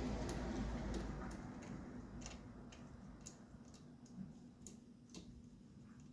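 Light, irregular clicks and taps of metal tools and parts being handled, roughly one or two a second. A hiss fades out over the first two seconds.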